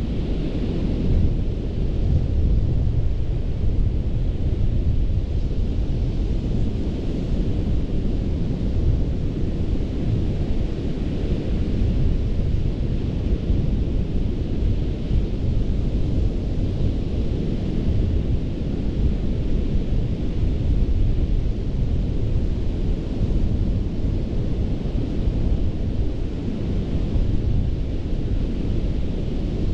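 Ocean surf on a sandy beach: a constant deep rumble with the hiss of waves washing in swelling and fading every few seconds.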